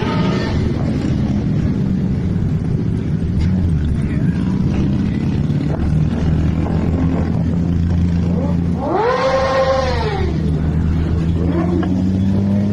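Motorcycle engine running steadily at idle, with a brief loud whine about nine seconds in that rises and then falls in pitch.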